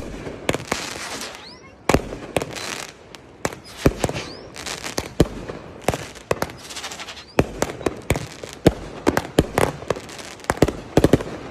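Consumer fireworks going off: a rapid run of sharp bangs and pops with crackling between them and a few short whistles, the bangs coming thicker in the second half.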